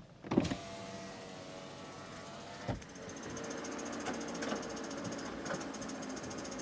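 Ford Focus engine comes on suddenly about half a second in and runs at idle, with a single sharp knock a little under 3 s in and faint repeating ticks over the idle: the strange noise the car makes at idle.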